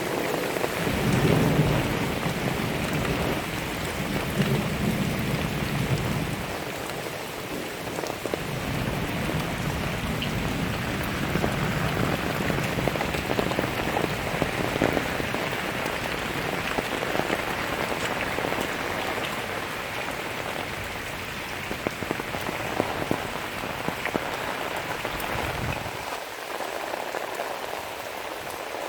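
Heavy rain falling steadily, a dense hiss of drops on water and ground. A low rumble comes and goes underneath and fades out about three seconds before the end.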